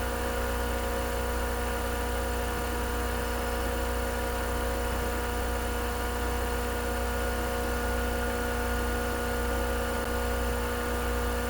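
A steady, unchanging engine-like hum: a deep low drone with several constant tones above it, like an engine idling.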